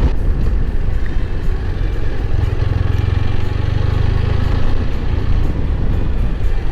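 Motorcycle riding at road speed: steady engine drone mixed with wind and road noise, with the low hum swelling for a couple of seconds about halfway through.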